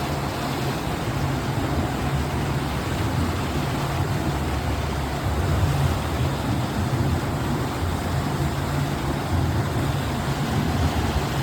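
Boat engine running steadily underway, a low rumble under a constant rush of wind and water.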